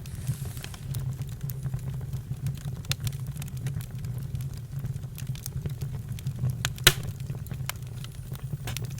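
Campfire crackling, with irregular sharp pops over a steady low rumble and one louder pop about seven seconds in.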